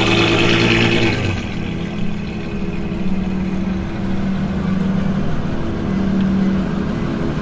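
Novitec-tuned Ferrari F12 N-Largo's 6.3-litre V12 running at low revs as the car rolls slowly, noticeably louder for about the first second, then settling to a steady low note.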